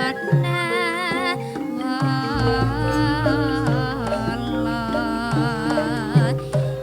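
Javanese gamelan music: held metallophone tones and drum strokes under a singer's wavering, ornamented vocal line.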